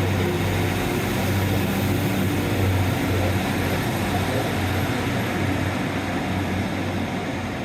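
Diesel passenger train at the platform, its engine running with a steady low hum under a broad hiss, easing slightly near the end as it is about to pull away.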